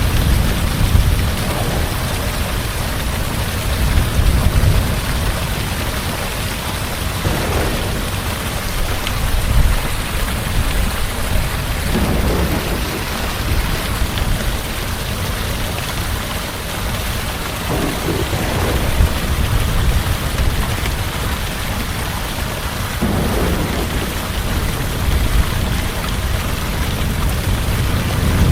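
Heavy rain falling steadily, under a continuous deep rumble of thunder, with a brief swell in the storm noise every few seconds.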